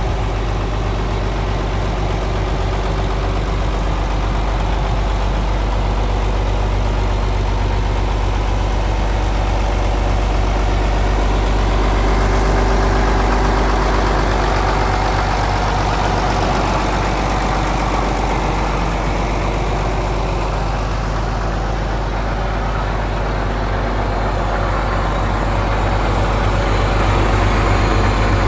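John Deere 7520 tractor's 8.7-litre six-cylinder diesel engine running steadily.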